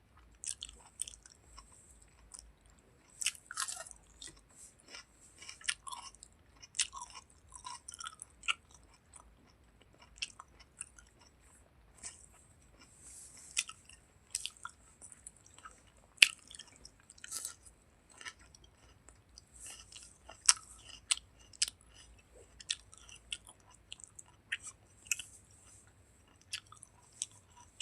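Close-miked chewing and mouth smacks of someone eating chicken skin curry with rice: irregular sharp clicks and smacks, several a second in bursts, with brief pauses between mouthfuls.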